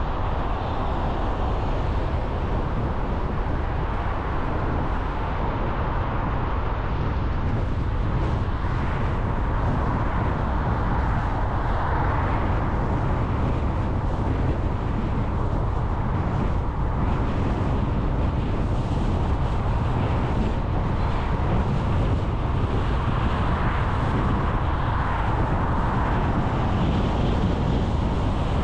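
A car being driven: steady road and engine noise with a heavy low rumble.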